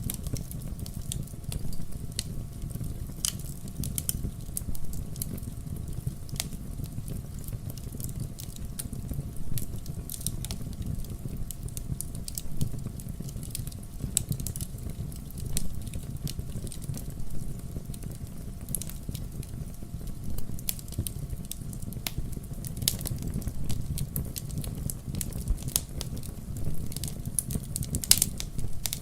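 Wood fire burning in a fireplace: a steady low rumble of flames with frequent irregular crackles and pops, the loudest pop near the end.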